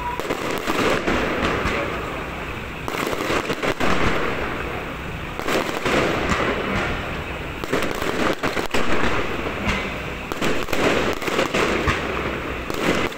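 Firecrackers and fireworks going off continuously: a dense crackle of rapid pops with heavier bangs in clusters every few seconds.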